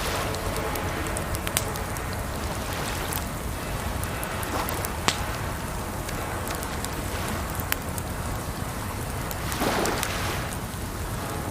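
Wood fire crackling, with frequent sharp pops, over a steady rush of water. The water swells louder briefly about ten seconds in.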